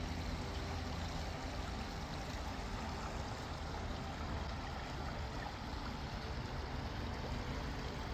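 Steady rush of flowing creek water, an even noise with no breaks.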